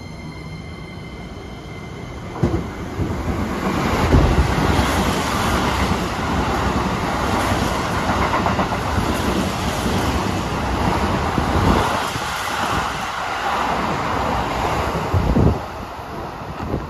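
Keikyu 1000-series electric train passing through the station at speed: a loud, steady rush and rumble with wheels clattering over rail joints. There is a sharp knock as it arrives, about two and a half seconds in, and another heavy knock near the end as it clears.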